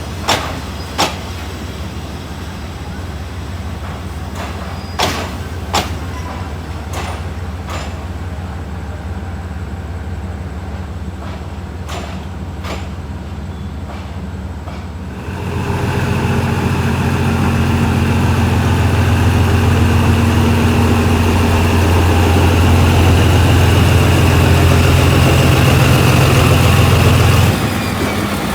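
Diesel locomotive engine idling, with several sharp clicks in the first half. About halfway through the engine steps up to a much louder, steady run with a high whine over it, then drops back shortly before the end.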